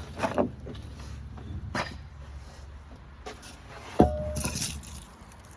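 Things being moved and set down while a workbench is cleared off: a few scattered knocks and clatters, the loudest about four seconds in with a brief ring.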